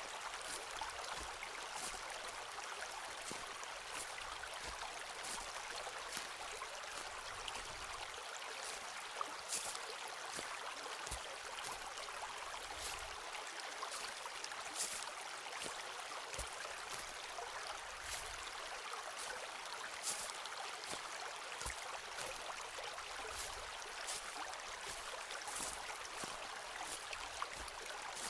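Footsteps walking on a forest path, each step a short crunch, coming irregularly about once a second over a steady rushing hiss.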